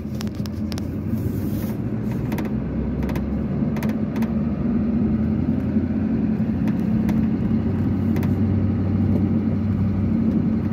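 A vehicle's engine running steadily at low speed, with a low hum and tyre noise heard from inside the cab. Short light knocks and rattles come through, mostly in the first few seconds, as it rolls over a rough dirt road.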